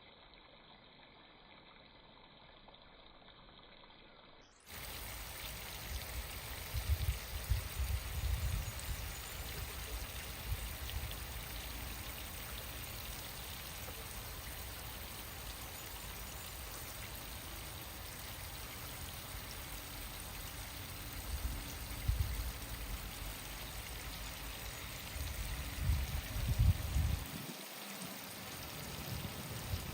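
Water pouring and running steadily, with low bumps here and there, as when toy vehicles are rinsed clean of mud. It starts suddenly a few seconds in, after a faint, dull hiss.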